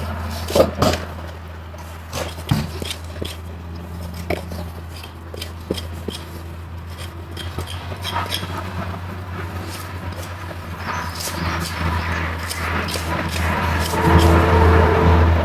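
A steady low motor hum with scattered scrapes and knocks over it; the hum grows louder and fuller over the last few seconds.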